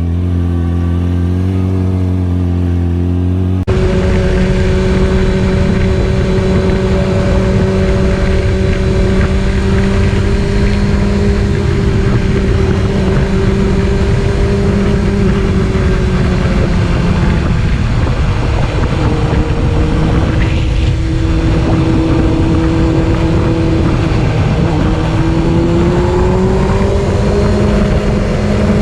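Motorcycle engine running steadily while riding, over heavy wind and road noise. The engine note drifts slowly up and down with speed, and the sound changes abruptly about four seconds in.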